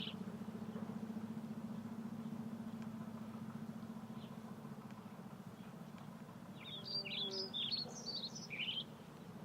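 A low, steady mechanical hum that slowly fades. A bird chirps a quick string of short notes about seven seconds in.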